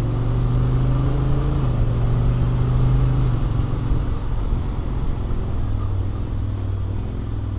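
Honda X-ADV 750's parallel-twin engine, on its stock exhaust with an Akrapovic manifold, running steadily under way, with wind noise over the microphone. The engine note holds for the first few seconds, then eases to a lower note about halfway through.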